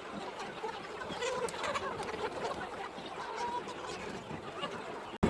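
A flock of chickens clucking, many short overlapping calls. A sharp click near the end.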